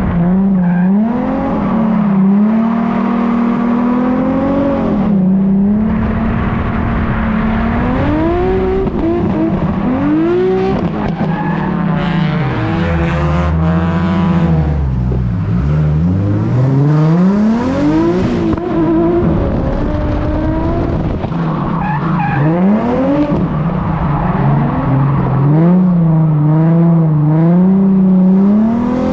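Nissan 350Z's 3.5-litre V6 revving hard and repeatedly through a drift run: the revs swing up and down over and over, wobble rapidly near the start and near the end, and drop low once about halfway through before climbing again.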